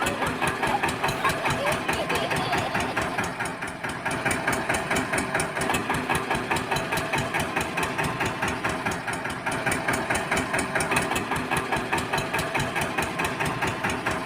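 Tractor engine chugging at idle with a rapid, even beat, dipping briefly a little before four seconds in.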